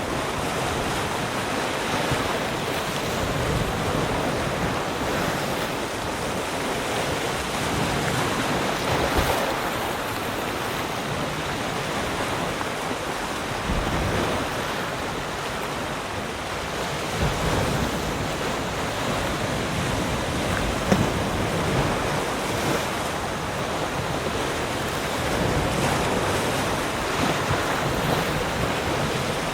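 Sea surf: waves breaking and washing onto the shore in a steady rush, swelling and easing every few seconds, with some wind on the microphone.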